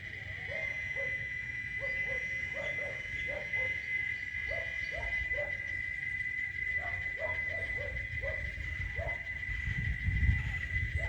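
Cicadas droning in one steady high-pitched chorus, with short repeated calls from another animal, about two a second, over it; a low rumble comes up near the end.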